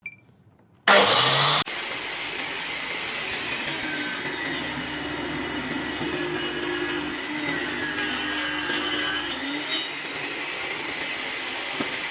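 Power saw cutting wood, running steadily with a slightly wavering pitch. It starts abruptly about a second in, loudest for its first half-second.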